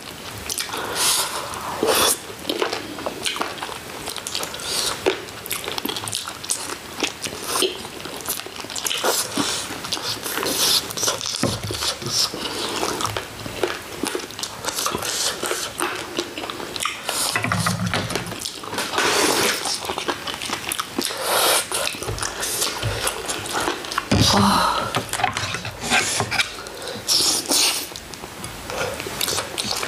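Close-up eating sounds: chewing and biting of food, with many irregular sharp clicks and crunches.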